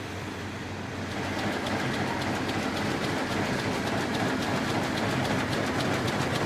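Textile production machinery in a net-making factory running with a steady mechanical din. About a second in, a louder fast, even clatter starts and keeps going.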